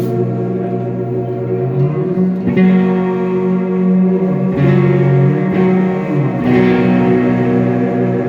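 Electric guitar playing a live instrumental passage, sustained chords ringing with reverb and echo effects and changing about every two seconds.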